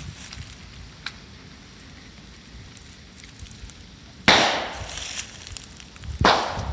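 Bonfire crackling, with moso bamboo in it bursting with two loud sharp bangs, the second about two seconds after the first, as sealed bamboo sections split in the heat; a smaller crack comes about a second in.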